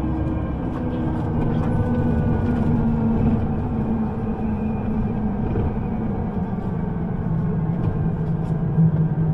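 Underground train running: a steady rumble with a low hum that shifts slightly in pitch.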